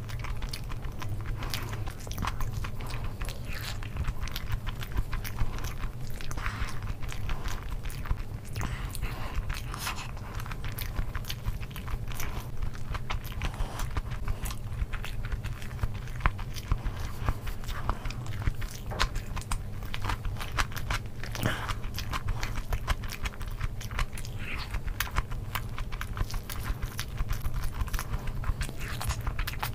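Close-miked chewing and biting of a mouthful of curried rice and boiled egg eaten by hand, with wet mouth clicks and smacks coming thick and fast, over a steady low hum.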